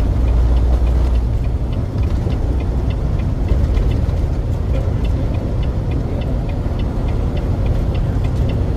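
Semi truck running down the highway, heard inside the cab: a steady low engine and road rumble, with a regular light ticking, about two to three a second, from about two seconds in.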